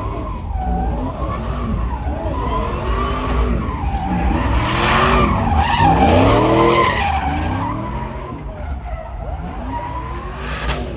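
Truck engines revving up and down repeatedly while tyres screech in a burnout or donut. The screech and revving are loudest about five to seven seconds in.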